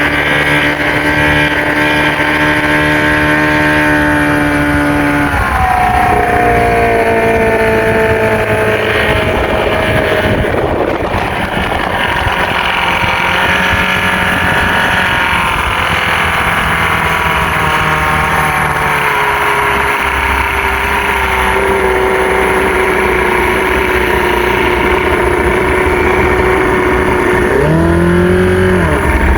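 Fishing boat's motor running under way. About five seconds in the engine speeds up, then its note slowly sinks, and near the end it is throttled back sharply.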